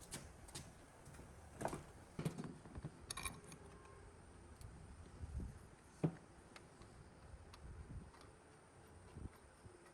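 Scattered light clicks and knocks, like small parts and hand tools being handled and set down, a cluster in the first few seconds and the sharpest knock about six seconds in.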